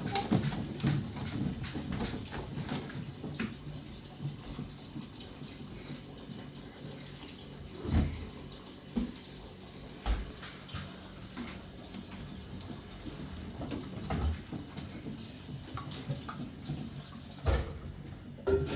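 Water running and dripping, with scattered small clicks and a few louder knocks and thumps.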